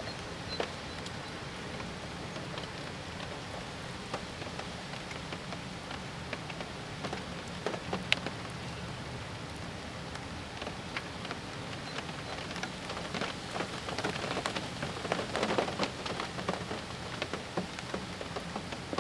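Rain falling steadily, with many individual drops ticking sharply; the drops come thickest about two-thirds of the way through.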